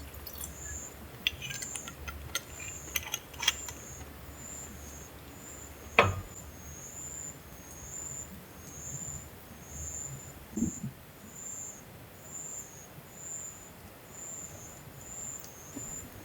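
Insects, likely crickets, chirping evenly at a high pitch, about one and a half chirps a second. Scattered light clicks come early on, with one sharp knock about six seconds in.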